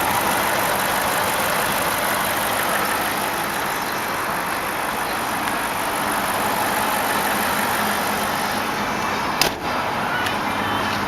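BMW 745i's 4.4-litre V8 idling steadily and quietly with the hood open, with a single sharp knock about nine seconds in.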